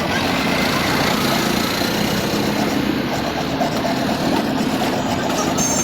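An engine running steadily, like a motor vehicle idling.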